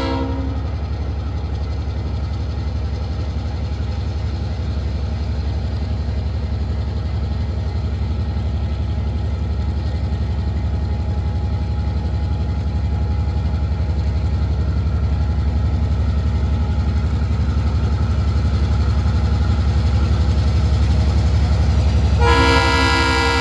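Approaching Tasrail diesel freight train: a steady low locomotive engine rumble slowly growing louder. The train horn's last blast dies away just at the start, and the horn sounds again about a second before the end.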